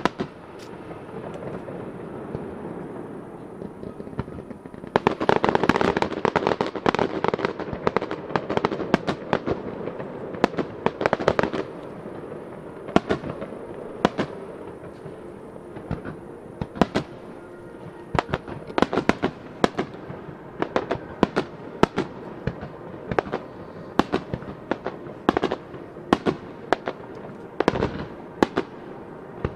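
Aerial firework shells bursting, with dense volleys of bangs about five and ten seconds in, then single bangs about once a second.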